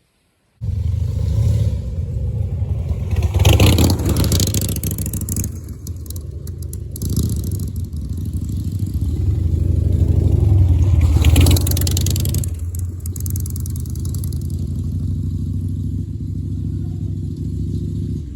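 Racing motorcycle engines running hard and passing, swelling loudest twice, about four seconds in and again about eleven seconds in.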